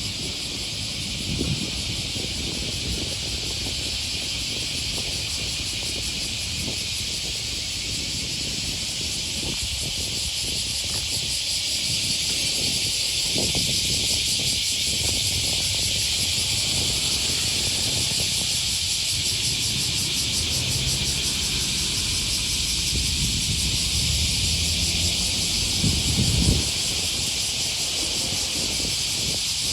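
Cicadas singing in a continuous, steady chorus, a dense high buzz that does not let up.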